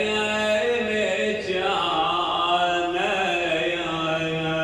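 A man's voice chanting a mournful Shia lament in long, drawn-out notes that slide up and down, with a steady low hum underneath.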